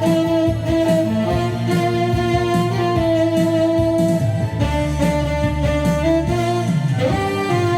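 Saxophone playing a melody of long held notes over a recorded backing track with guitar.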